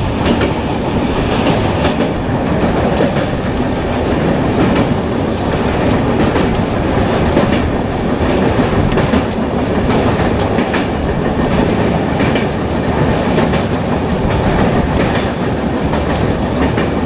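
Passenger train running, heard from inside a general-class coach: a steady rumble with the clickety-clack of wheels over rail joints.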